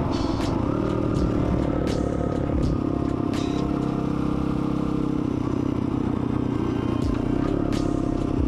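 Pit bike's small single-cylinder engine running while riding, its pitch shifting in the first second or two and then holding steady for several seconds, with a few sharp clicks now and then.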